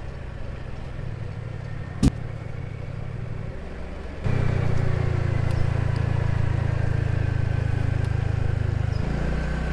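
Small motor scooter engine running steadily while riding, with wind and road noise; it gets abruptly louder about four seconds in and eases a little near the end. A single sharp click about two seconds in.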